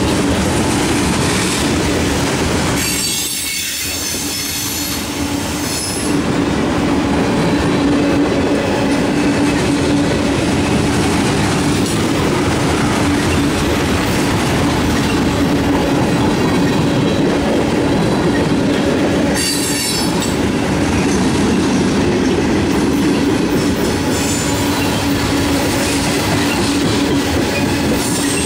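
Loaded freight cars of a CSX mixed manifest train rolling past, with a steady rumble and clatter of steel wheels on rail. High-pitched wheel squeal comes in twice, about three seconds in and again around twenty seconds in.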